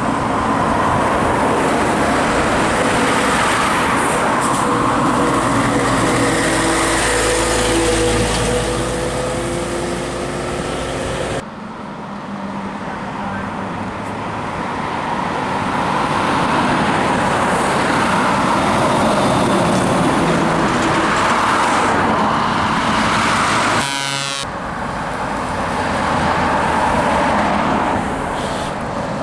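Heavy trucks driving past under power, their diesel engines running loud with the pitch rising as they pull away, in three clips separated by sudden cuts.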